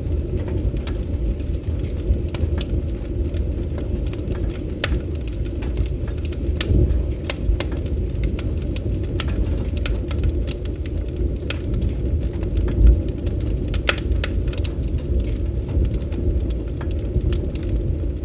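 Crackling wood fire: a steady low rumble of burning with frequent irregular sharp crackles and pops.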